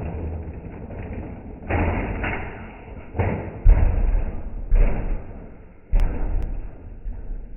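Monster truck landing jumps and crashing: a run of heavy thuds and slams, about five in all, each fading away, over a low engine rumble.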